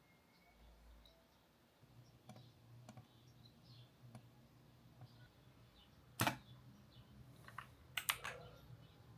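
Computer keyboard and mouse clicks: a few scattered light taps, one louder click about six seconds in, and a quick run of clicks near the end, over a faint low hum.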